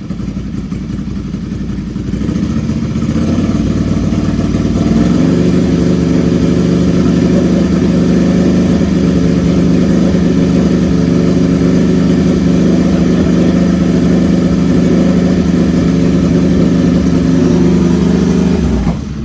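Ducati Scrambler 800's air-cooled L-twin through a headerback exhaust with its dB killer removed: idling, then revved up over a few seconds and held steady at about 3,000 rpm. It drops back to idle near the end.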